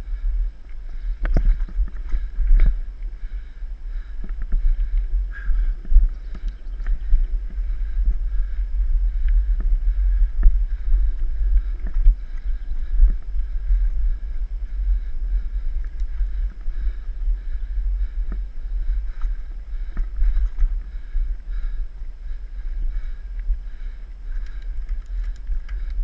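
Mountain bike ridden over a dirt trail: wind buffets the camera microphone as a steady low rumble, with scattered knocks and rattles from the bike jolting over the ground.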